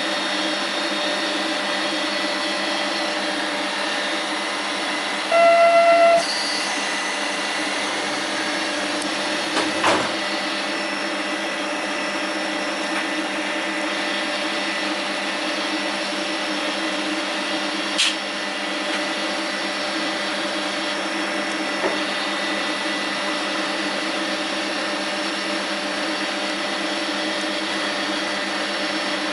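Steady running drone inside a train, with a constant low hum. About five seconds in, a loud pitched tone sounds for about a second, and a few faint clicks are heard later.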